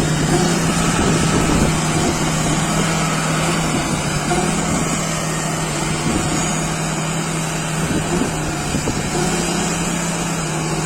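Truck engine running steadily with a constant note that dips briefly about four seconds in and again near the nine-second mark, as the truck tries to rock free of wet, packed snow.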